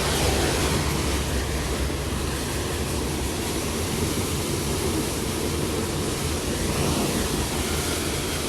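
Loaded CSX coal train's cars rolling past: a steady rumble of wheels on the rails with rushing noise, with no separate clanks.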